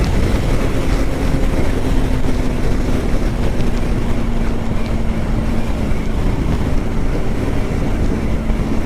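Yamaha R15M's 155 cc single-cylinder engine running at a steady cruise, its note drifting slightly lower over the first six seconds, under heavy wind rumble on a helmet-mounted microphone.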